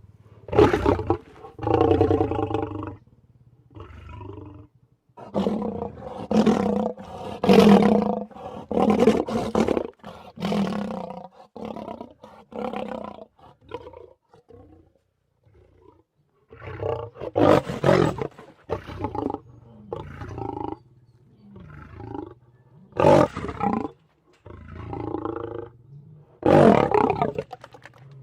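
A string of creature roars and growls made by mixing large-animal calls such as walrus, polar bear, gorilla, cougar, camel and moose. Each call lasts a second or two, with short gaps between them and a near-silent pause about halfway through.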